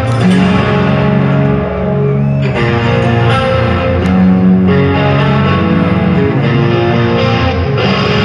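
Heavy metal band playing live: an electric guitar with distortion and effects plays a melodic line of held notes over bass and drums.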